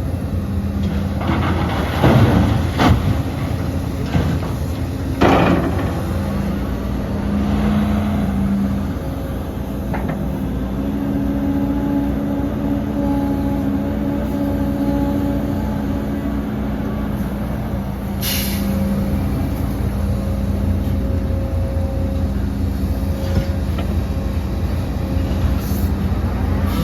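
Heavy diesel earthmoving machinery running steadily, with a few sharp metallic knocks in the first several seconds and a brief hiss about two-thirds of the way through.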